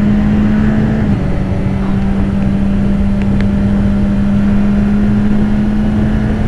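BMW S1000RR inline-four engine on its stock exhaust running at steady revs while riding, with a slight drop in pitch about a second in, over heavy wind noise.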